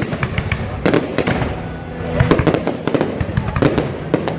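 Fireworks display: a rapid string of sharp bangs and crackles over a continuous rumble of bursts.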